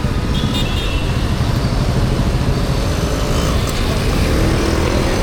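Busy city street traffic: vehicle engines running and passing, a steady heavy low rumble with no let-up.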